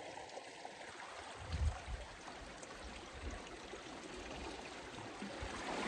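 Steady rushing wash of sea water over a rocky lava shore, with a brief low bump about a second and a half in.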